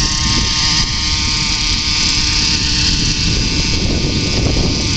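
Radio-controlled model helicopter hovering: its engine and rotors run at a steady pitch, several fixed tones over a constant hiss.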